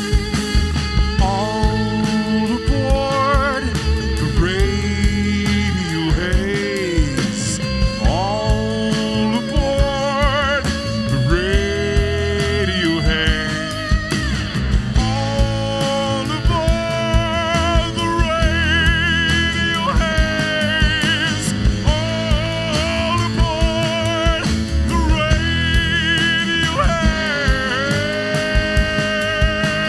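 Rock band playing an instrumental stretch: a steady drum beat under bass and guitars, with a lead line that bends and wavers in pitch.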